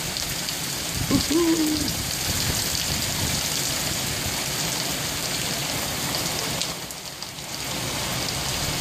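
Torrential rain pouring down and splashing on hard surfaces, a dense steady hiss, with runoff water streaming down the street. It eases briefly about seven seconds in.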